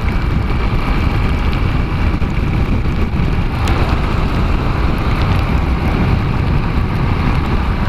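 Steady rush of wind and road noise from a KTM 690 Duke motorcycle riding at speed in the rain, with tyre spray and the single-cylinder engine mixed into a deep, even rumble. Scattered small ticks of raindrops hitting the camera run through it.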